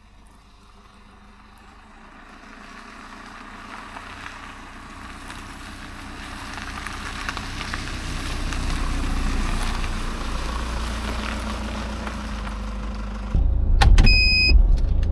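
Heavy rain on a camper van, a steady hiss with scattered drop ticks that builds up over the first several seconds. Near the end a louder low rumble sets in, with a few clicks and a short high electronic beep.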